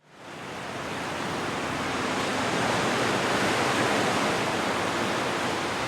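Ocean surf: a steady, dense wash of waves that fades in from silence at the start and swells gently toward the middle.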